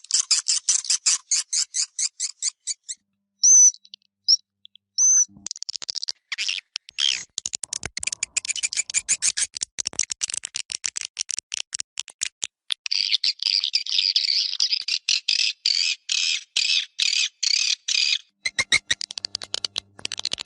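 Recorded swiftlet calls, a swiftlet-house external lure sound. Rapid trains of dry, clicking chirps, with a few short high whistled chirps around four seconds in, then a denser, buzzy twittering in the second half.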